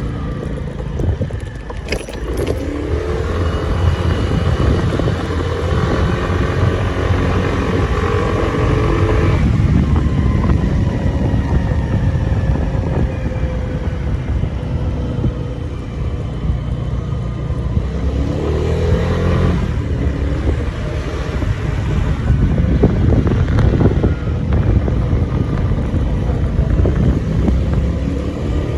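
Moped engine running while riding, with a steady low rumble; it speeds up about two seconds in and again past the middle, easing off in between.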